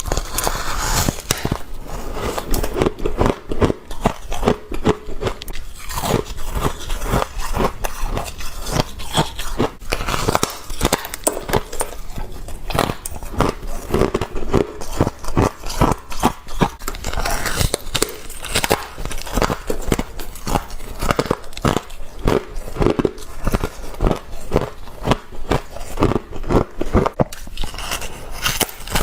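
Someone biting and chewing frost ice, with crisp crunches and crackles following one another closely and no pause.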